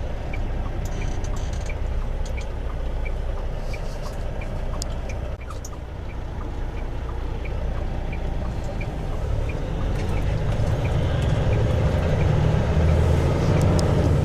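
Semi-truck tractor's diesel engine running as heard inside the cab while driving, its low rumble growing louder in the last few seconds. A light, regular ticking sounds about three times every two seconds through most of it.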